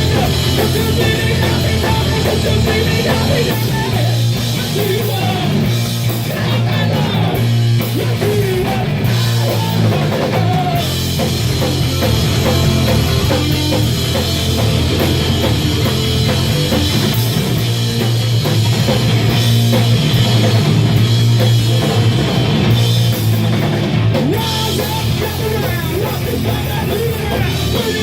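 Loud heavy punk-rock band playing live, the drum kit driving under thick distorted instruments without a break.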